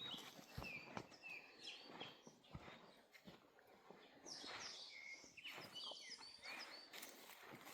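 Faint chirping of birds, many short, quick notes falling in pitch, repeated throughout, with scattered light clicks and knocks.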